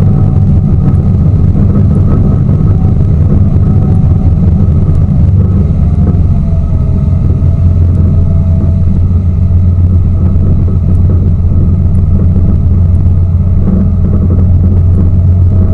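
Tour boat's engine running steadily under way, a loud, even low drone.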